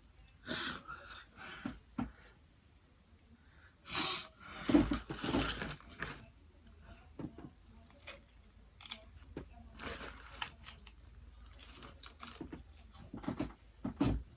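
Close-miked chewing and eating sounds from a mukbang meal of fried chicken and spicy noodles: irregular wet mouth noises and crunches, loudest about four to six seconds in and again near the end.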